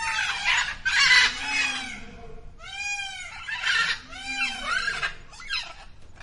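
An animal calling repeatedly: a run of short harsh squawks and arching cries, about one a second, with brief pauses between them.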